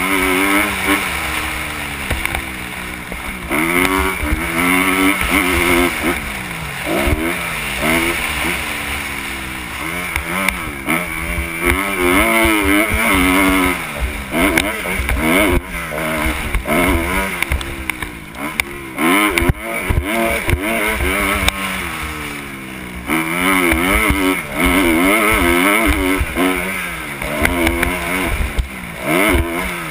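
Kawasaki KX 250 motocross bike engine revving up and falling back over and over as it accelerates, shifts and backs off around the track, heard from the rider's helmet camera.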